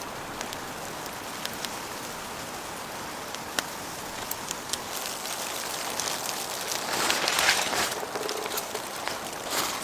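Steady rain falling, with many separate drops ticking sharply on nearby surfaces; the noise swells louder for about a second around seven seconds in and again near the end.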